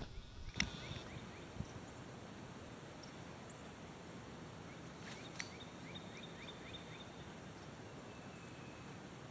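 Quiet outdoor ambience with a steady hiss. A sharp knock comes about half a second in. Midway there is a brief, rapid run of faint chirping bird notes, several a second.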